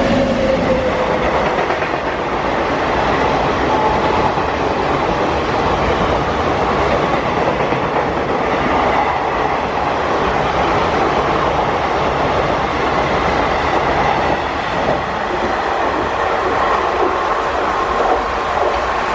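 Indian Railways train coaches running past at speed, wheels clattering rhythmically over the rail joints, mixed with the hiss of heavy rain. A fading tone at the very start trails off from a horn.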